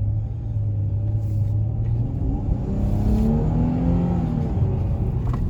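Dodge Charger SXT's 3.6-litre V6 accelerating away: a steady low drone at first, then about two seconds in the engine note climbs and drops back, as in an upshift of the eight-speed automatic.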